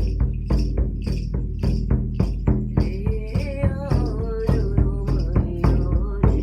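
Shamanic journey drumming: a drum beaten steadily and fast, about four strokes a second, over a low sustained drone, with a crisp rattling accent about twice a second. A wavering melodic line rises and falls midway.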